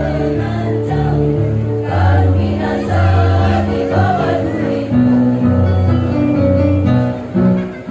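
A women's choir singing a devotional Islamic song with instrumental backing, held notes moving through a melody.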